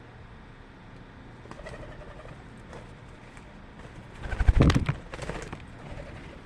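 Birds calling faintly, then a loud, brief burst of noise about four and a half seconds in, followed by softer rustling.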